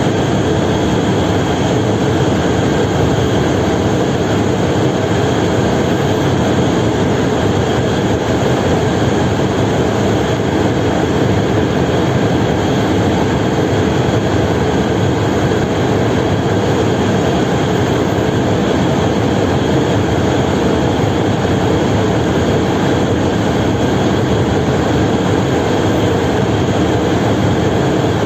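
Steady, loud drone of a large engine with an even rushing noise over it, unchanging throughout.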